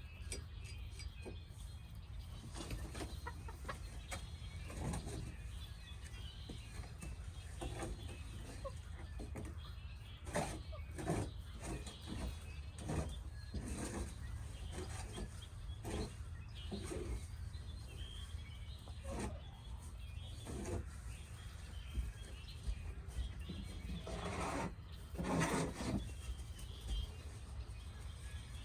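Backyard hens clucking now and then, with a louder pair of calls near the end, over a steady low rumble of wind on the microphone.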